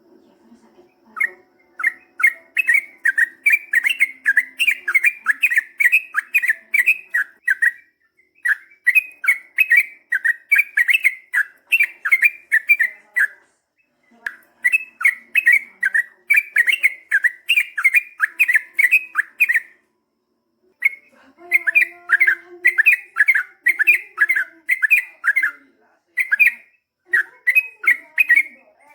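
Yellow-vented bulbul (trucukan) singing a long, rapid series of repeated chirping notes, about three a second, in runs of several seconds broken by four short pauses.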